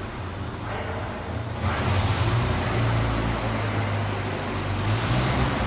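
Motor vehicle engine running with a steady low hum. A louder rush of noise joins about a second and a half in.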